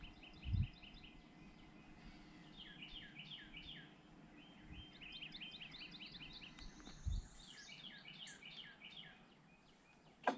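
A bird singing quick series of short chirping notes, repeated several times over a faint outdoor background. Two low bumps break in, and a sharp click comes just before the end.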